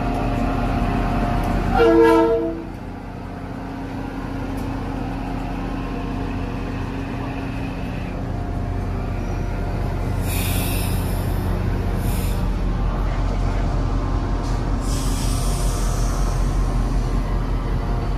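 A train horn sounds one short chord-like blast about two seconds in, over the steady low hum of a train standing or running at the platform. Short patches of high hissing follow near the middle and again later.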